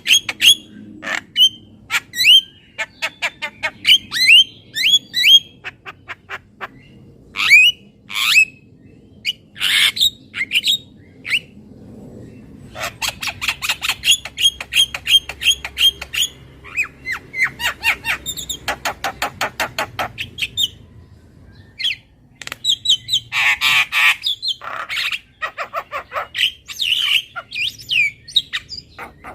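Javan myna calling: rapid runs of short, sharp notes and clicks mixed with harsh squawks, coming in bursts with brief pauses.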